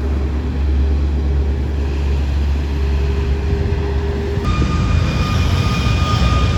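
Aircraft engines running with a steady low rumble; about four and a half seconds in the sound changes abruptly and a steady high-pitched whine joins the rumble.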